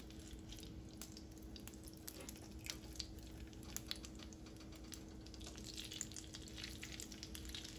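Squash patty batter frying in hot oil in a skillet: a quiet sizzle with many small scattered pops and crackles. A faint steady hum runs underneath.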